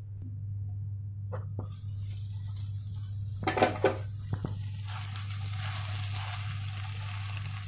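Vermicelli upma sizzling in a kadai as the lid is lifted off and a spatula stirs it, with a few knocks of lid and spatula against the pan in the first half. The sizzle grows louder about five seconds in, over a steady low hum.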